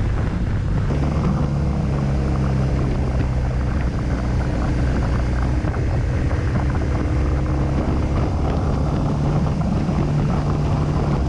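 Motorcycle engine running at a steady cruise while riding, a constant drone with road and wind noise.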